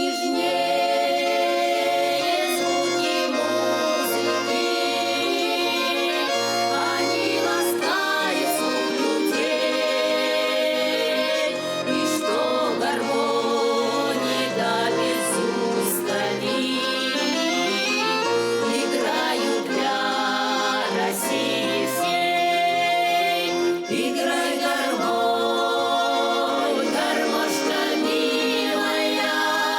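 Accordion playing a Russian folk tune, with held chords and a moving melody.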